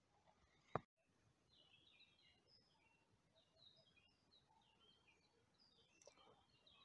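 Faint songbirds chirping, many short high notes in quick succession, with one sharp click about a second in.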